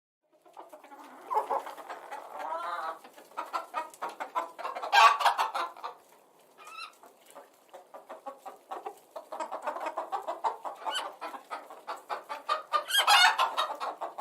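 Domestic hen clucking, a quick run of short clucks, with louder calls about five seconds in and again near the end.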